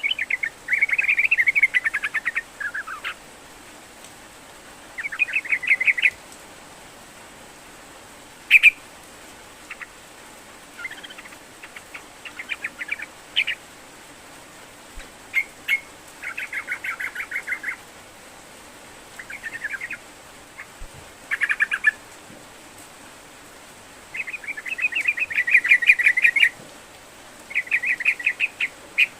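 Yellow-vented bulbul (trucukan) in full song: short phrases of fast, chattering notes repeated every few seconds with brief pauses between them.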